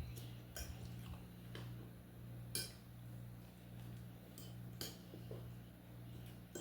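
Faint, scattered clicks of cutlery against a plate during a meal, several separate clinks about a second apart, over a steady low hum.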